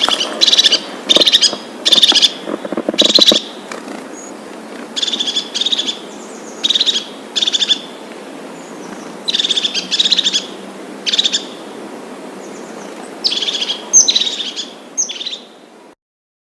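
A small bird calling: short, high, rapidly pulsed chirps, repeated in bunches of two or three with pauses between, over a steady background hiss. The sound cuts off suddenly near the end.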